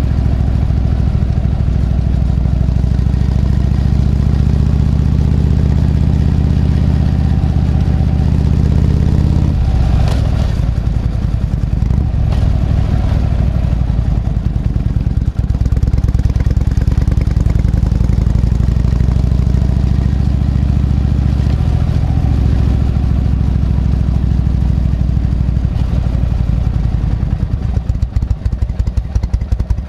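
Harley-Davidson Shovelhead FLH's V-twin engine running as the motorcycle is ridden. The engine note drops about ten seconds in, then rises and falls with speed. Near the end it slows to an uneven, pulsing beat as the bike comes off the road.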